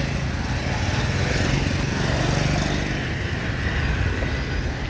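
A vehicle on the move: a steady low engine hum with road noise.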